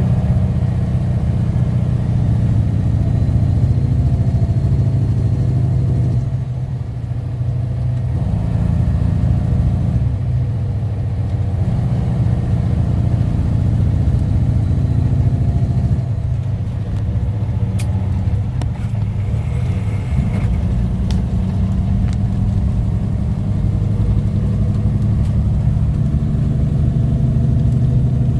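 Diesel engine of a semi tractor-trailer running steadily, with brief dips in level about six and sixteen seconds in.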